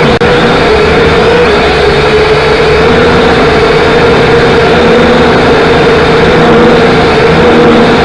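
Camera drone's propellers whining steadily at a held pitch that wavers slightly, with a brief dropout just after the start.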